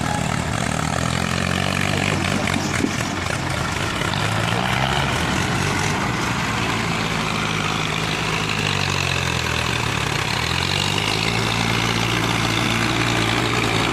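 Tractor diesel engine running hard under load, its speed sagging and picking up again a couple of times.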